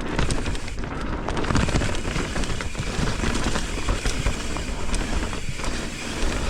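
Mountain bike riding down a dirt singletrack: continuous tyre and trail noise with frequent rattles and knocks from the bike, and low rumble of wind on the microphone.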